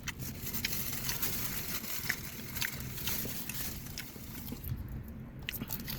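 A person chewing food, with small wet mouth clicks scattered through, over a steady low background hum.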